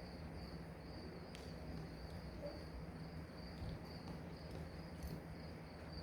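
Crickets chirping steadily in a high, evenly pulsing trill, over a faint steady low hum.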